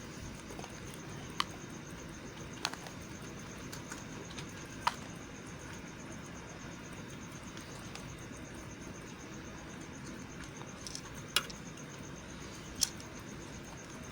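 Knife cutting into a bar of dry white soap: a steady soft hiss with five crisp snaps as pieces break away.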